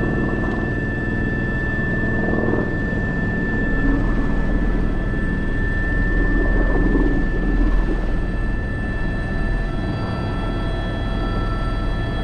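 Airbus H125 helicopter running: a steady drone from the rotor with a high, constant turbine whine, swelling a little in the middle.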